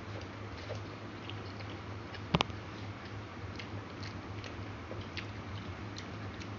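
Close-up chewing and small wet mouth clicks of a man eating rice and chicken by hand, with one sharp click about two and a half seconds in, over a steady low hum.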